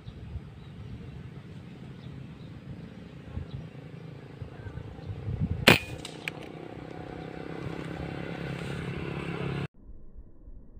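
A single sharp air-rifle shot about halfway through, over steady outdoor background noise. The sound cuts off suddenly near the end.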